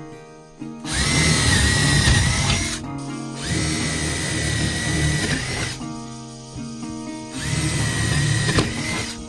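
A power drill runs three times, each run about two seconds long, with a steady high whine, over background music.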